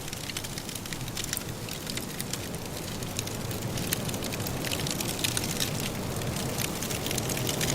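Wood fire crackling in a fireplace: irregular small pops and snaps of burning logs over a steady low rushing noise.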